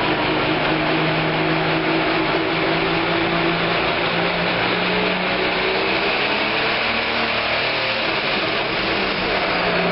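Pro stock pulling tractor's turbocharged diesel engine running hard at high, steady revs, a continuous heavy engine noise with a held pitch.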